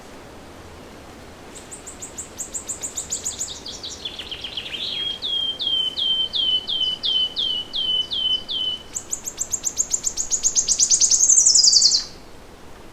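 A songbird close by sings one long song: a run of quick high notes dropping in pitch, then a steady series of repeated lower whistled notes, then a fast high trill that grows louder and stops suddenly near the end. A faint steady hiss of forest background lies under it.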